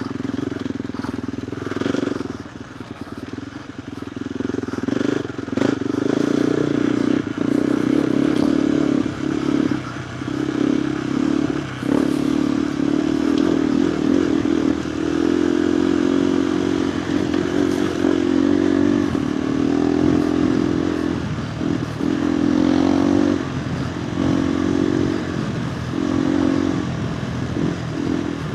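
KTM 390 Adventure R's single-cylinder engine heard through a Norifumi Whoops stainless slip-on exhaust with the dB killer fitted, ridden on a dirt trail: the exhaust note rises and drops every second or two as the throttle is opened and closed. A few sharp clicks and knocks come through from the trail surface.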